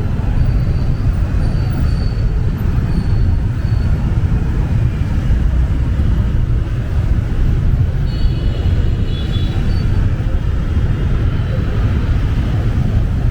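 Steady rush of road and traffic noise from a small open vehicle riding through dense motorbike traffic, heavy in the low end. Faint high tones come through near the start and again about eight seconds in.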